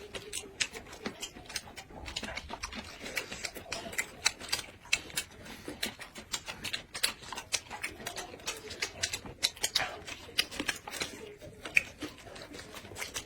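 Close-miked eating: chewing with lip smacks and sharp clicks, several a second and irregular.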